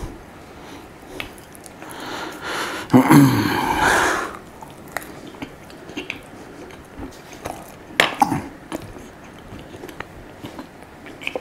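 Close-miked eating sounds of a person chewing a crepe, with a brief throaty noise about three seconds in and a sharp click near eight seconds.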